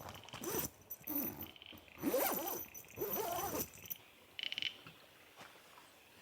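A dog whining and grumbling in four short bouts, its pitch sliding up and down, followed a little after the middle by a brief high rasp.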